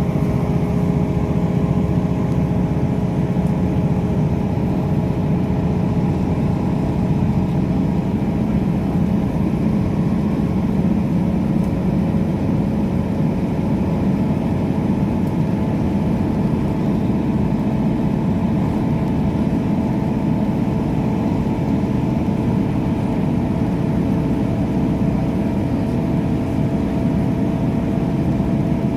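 Inside a moving passenger train: a steady, unbroken low rumble with a constant hum of several tones over it.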